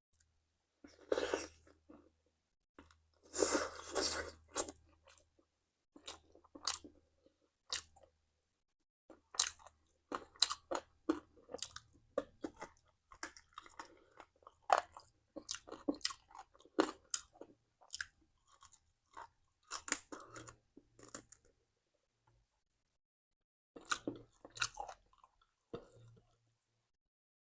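A person biting and chewing crunchy food, in irregular bursts of crunching with short pauses between.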